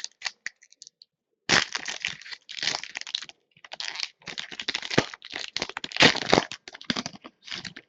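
A trading card pack's wrapper being torn open and crinkled, in irregular rustles and crackles that start about a second and a half in.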